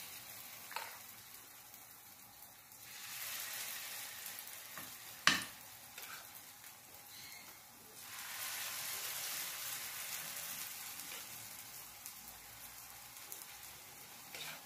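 Spoonfuls of pumpkin-and-pepper fritter batter sizzling in hot oil in a frying pan. The sizzle swells louder twice as fresh batter goes into the oil, and one sharp knock sounds about five seconds in.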